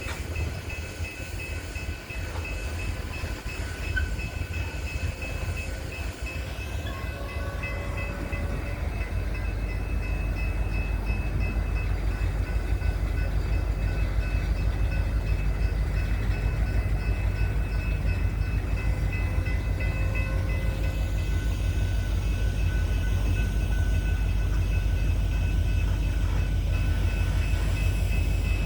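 Coal train's diesel locomotives and cars rumbling on the rails, the low rumble growing louder over the first ten seconds or so and then holding steady, with thin steady high-pitched tones over it.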